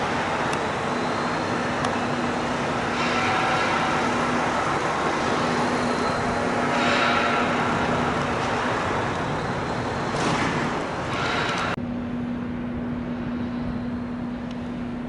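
Road vehicle noise: a steady engine and tyre hum with several vehicles swelling past, and the top of the sound dropping away abruptly about twelve seconds in.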